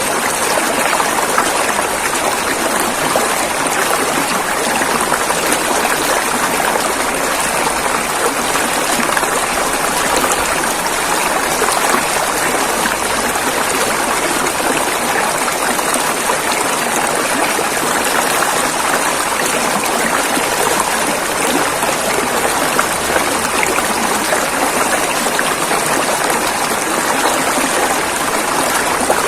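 River water rushing and splashing over rocks in a steady, even stream with no letup.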